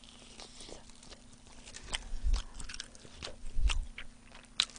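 Close-miked chewing and biting of sauce-coated fried chicken: wet clicks and smacks that come thicker from about two seconds in, with two dull low thuds.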